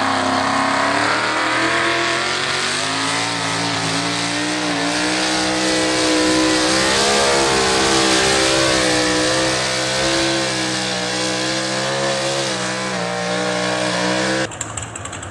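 Pulling tractor's engine revving up, then held at high revs with a slightly wavering pitch while under load. It cuts off suddenly near the end.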